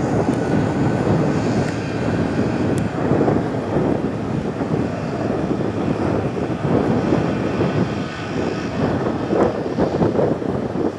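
Chinook CH-47 tandem-rotor helicopter flying, a steady, dense rotor and engine noise.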